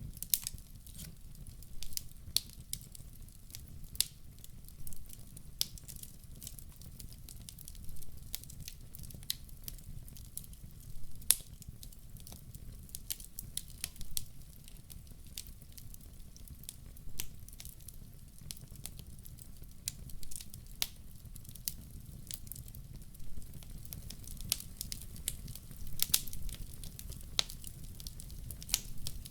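Wood fire crackling: irregular sharp pops and snaps, some louder than others, over a low steady rumble.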